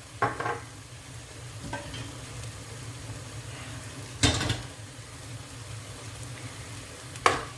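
Chicken and freshly added ground spices frying in a pan with a steady sizzle while being stirred, a utensil knocking against the pan a few times, loudest about four seconds in.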